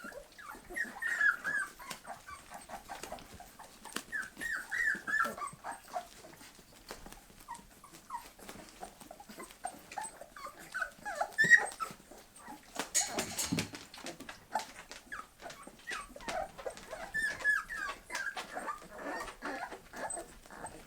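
Bull terrier puppies whimpering and squeaking in short high-pitched clusters, with many small clicks mixed in and a brief rustling burst about 13 seconds in.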